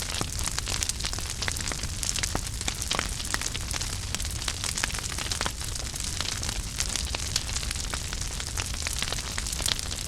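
Wood fire in a fireplace crackling steadily, with many small irregular pops and snaps over a constant hiss.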